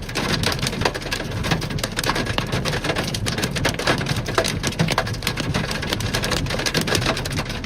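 Heavy rain from a severe thunderstorm pelting down, a dense, steady patter of many sharp hits.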